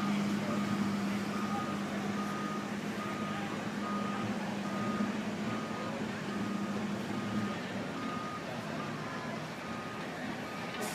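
A vehicle's reversing alarm beeping steadily at one pitch, a little more than once a second, over a running engine whose hum drops away about three-quarters of the way through.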